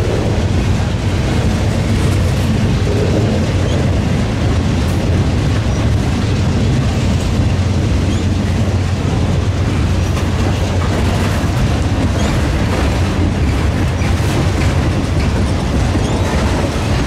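Amtrak Empire Service passenger train, led by a P32AC-DM diesel locomotive, running with a steady low rumble.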